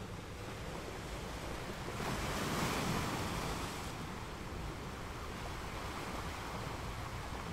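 Choppy sea water washing and wind noise on the microphone, swelling louder for a couple of seconds about two seconds in.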